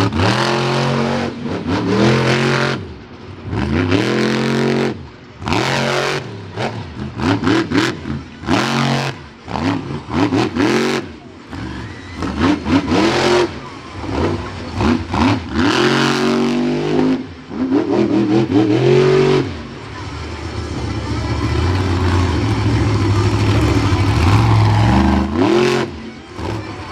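Monster truck engine revving hard in repeated bursts, its pitch sweeping up and falling away again and again with short throttle lifts between, then held at a steady high throttle for several seconds near the end.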